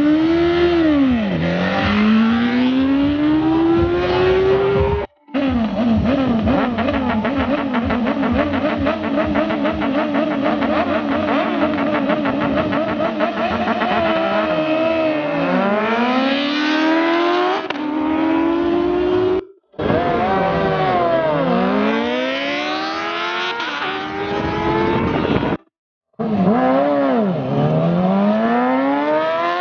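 High-revving racing engines accelerating hard, the pitch climbing through gear after gear with a sharp dip at each upshift. In the longer middle stretch the engine holds a high, slightly wavering pitch before climbing again. The sound breaks off abruptly between clips about five seconds in, near twenty seconds and about twenty-six seconds in.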